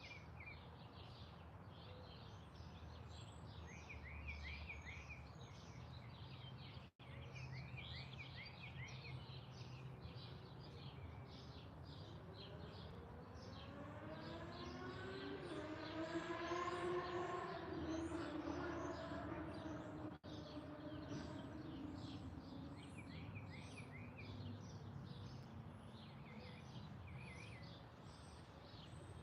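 Many small birds chirping and twittering continuously. Roughly in the middle, an engine passes: its hum grows louder and rises in pitch, then falls and fades away.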